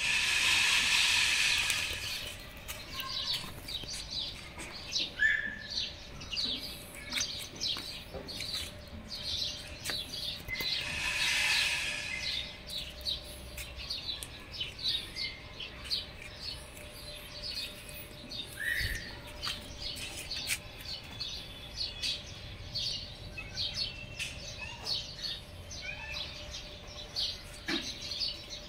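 Small birds chirping, many short calls in quick succession, with a faint steady hum underneath. Two louder stretches of rushing noise, one at the start lasting about two seconds and one around the middle.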